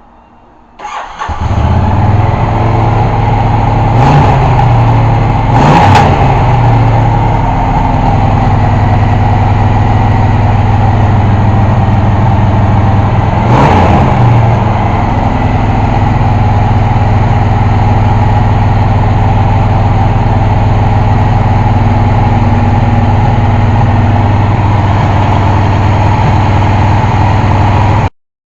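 Honda VTX 1300's V-twin engine catching about a second in and running steadily, with three brief throttle blips, then cutting off suddenly near the end. It is a first run after sitting for about seven years, fed a little fuel by hand, on a carburetor the owner believes will need rebuilding.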